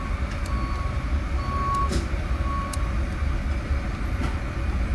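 A vehicle's reversing alarm beeping three times at about one beep a second, then stopping, over a steady low rumble.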